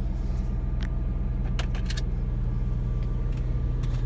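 The Mustang's 3.9-litre V6 idling steadily, heard from inside the cabin, with a few light clicks about a second and a half in.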